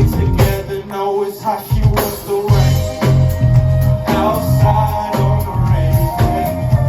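Live hip-hop performance: a band plays a groove with a heavy bass line, drums and guitar, with some singing.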